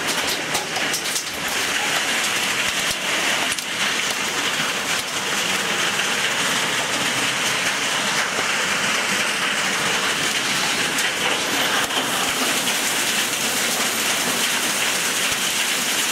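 Heavy storm rain pouring down in a steady, dense hiss, with a few sharp taps in the first couple of seconds.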